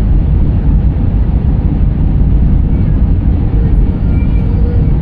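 Airliner cabin noise heard from inside the passenger cabin: a loud, steady, low rumble.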